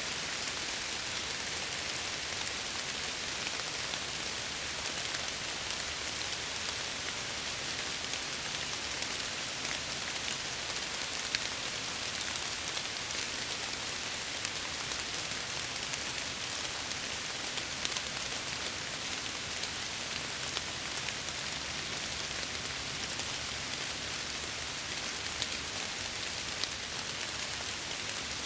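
Steady rain falling and pattering on a window, an even hiss with scattered sharper drop hits.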